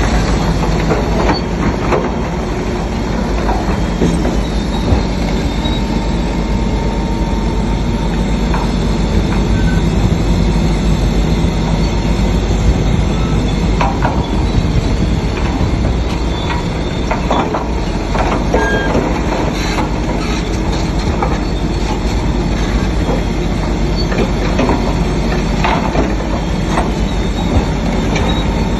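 Shantui DH7C3 crawler bulldozer working, its diesel engine running steadily under its steel tracks' squealing and clanking, with scattered knocks.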